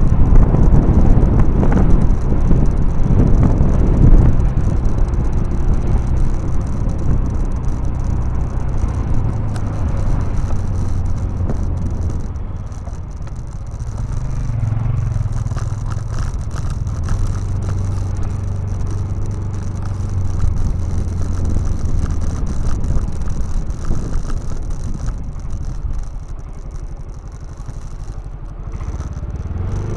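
A vehicle engine running, its low hum stepping up and down in pitch several times, louder and rougher in the first few seconds.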